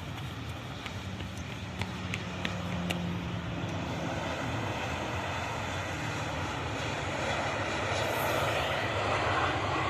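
Boeing 737 airliner's jet engines running with a steady noise that grows louder over the last few seconds, with a few faint clicks about two to three seconds in.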